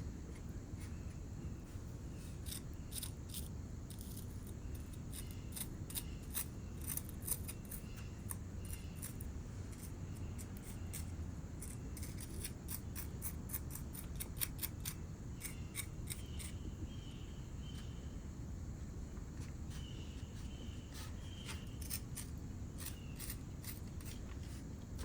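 Clay-sculpting sounds: irregular sharp clicks, snips and small scrapes of hand tools and fingers working coarse, grogged chamotte clay.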